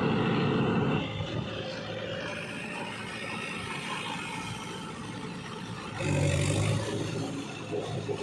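Mahindra 595 tractor's diesel engine running under load while pulling a rotavator through mud. It is louder in the first second and swells again briefly about six seconds in.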